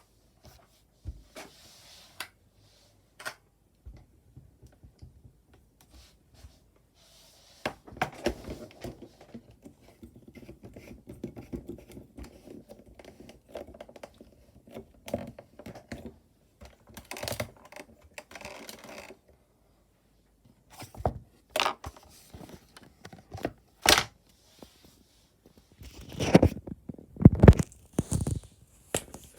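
Handling noises on a table: scattered taps and knocks, a stretch of rustling and scraping in the middle, and a few louder knocks near the end as things are moved about.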